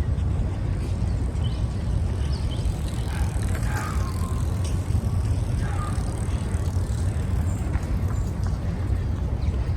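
Wind buffeting the microphone and tyre noise from a bicycle being ridden, a steady low rumble with a few faint high chirps over it.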